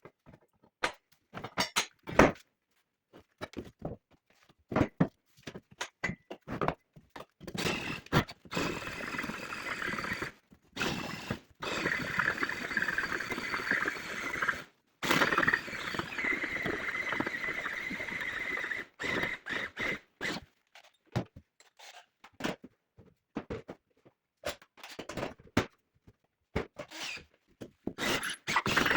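Metalworking noises: a string of knocks and scrapes, with a steady high whine that holds for several seconds in the middle.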